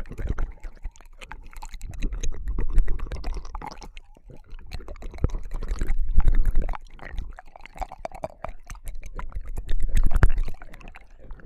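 Wet mouth sounds of ASMR ear licking on a binaural microphone: dense small clicks and squishes over a low rumble, swelling and fading in waves about every three to four seconds.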